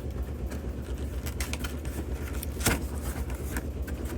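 Packing tape on a cardboard box being cut and pulled open: scattered light scrapes and clicks, with one louder rip about two and a half seconds in, over a steady low hum.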